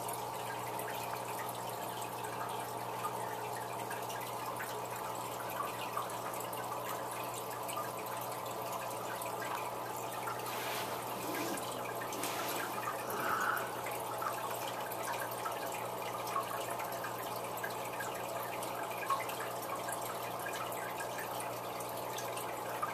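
Aquarium hang-on-back power filters running: water trickling and splashing steadily from the filter outflows into the tank over a low, constant motor hum.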